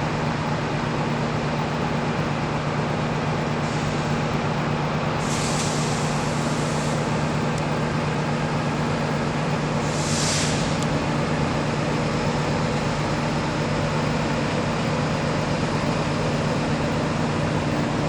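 NR class diesel-electric locomotive running steadily with a low, even engine drone as it hauls the train. Two short bursts of hissing come about five and ten seconds in.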